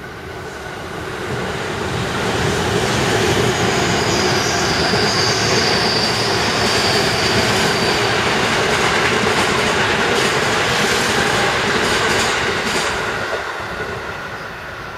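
Musashino Line electric commuter trains passing close below, their wheels running on the rails in a dense rumble that builds over the first few seconds and eases off near the end. A high steady squeal sounds from about four to eight seconds in, and a run of clicks follows later.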